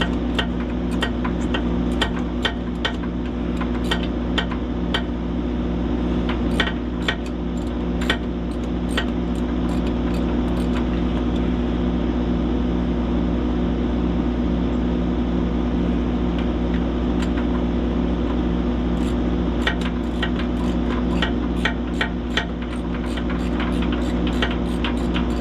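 An engine running steadily at a constant speed, with irregular sharp metallic clicks and clinks over it, bunched near the start and again toward the end.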